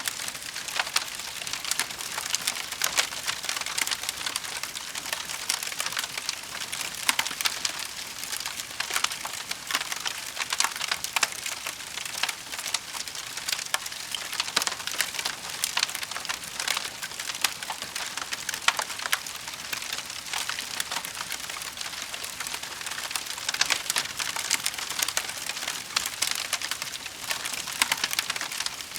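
Wood fire crackling steadily in a fireplace: a dense run of sharp pops and snaps over a soft hiss.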